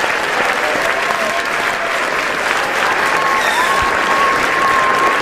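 An audience applauding steadily, a dense patter of many hands clapping, with cheers and shouts from the crowd standing out over it.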